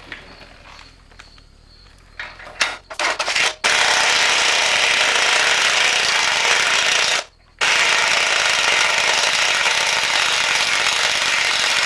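Impact wrench driving a ball joint press to push a new upper bushing into a rear leaf-spring shackle. A few short bursts come about two seconds in, then long, loud continuous hammering, with a brief pause a little past the middle.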